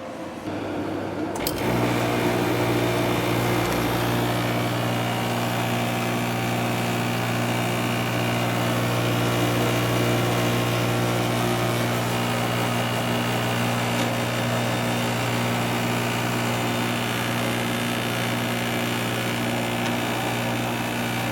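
A Quiet Cool window air conditioner's fan running on high, then about a second and a half in its Matsushita rotary compressor starts, adding a loud, steady hum. The unit vibrates while running, which the owner takes for the side panel.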